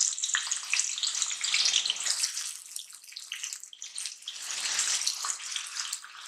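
Diced raw potatoes frying in hot oil in an iron kadai: a dense crackling sizzle that eases a little about halfway through and then builds again.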